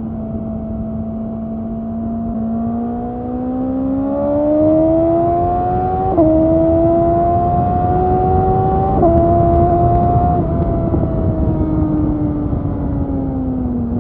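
BMW S1000XR's inline-four engine through an Akrapovič exhaust, pulling under way: the revs climb, two quick upshifts drop the pitch about six and nine seconds in, then the throttle is rolled off and the revs sink back to where they began. A steady rush of wind noise sits underneath.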